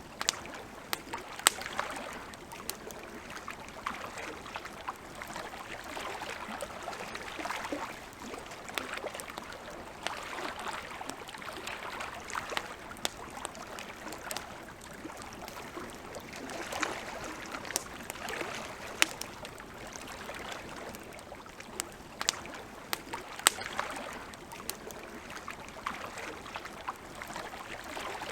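Campfire crackling, with irregular sharp pops and snaps over a steady hiss that swells and fades.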